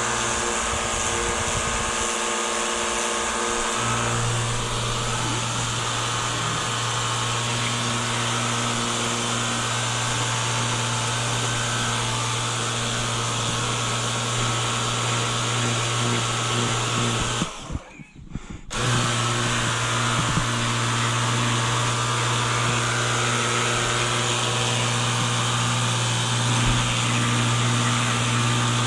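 Ryobi ONE+ 18V OWA1800 cordless pressure washer's motor-driven pump running with a steady hum and hiss, cutting out for about a second a little past halfway, then starting again.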